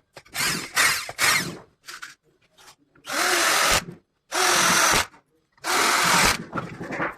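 Power drill running in bursts: a few short ones, then three even runs of about a second each that stop abruptly.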